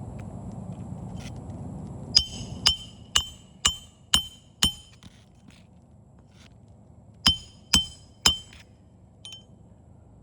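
Hammer blows on metal during shingle repair work: six quick strikes about two a second, a pause, then three more, each with a short ringing clink.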